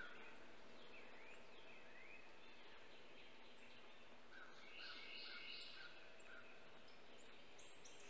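Faint birdsong: a songbird sings one short phrase of four or five repeated notes about halfway through. Softer thin slurred notes and a few high chirps come before and after it.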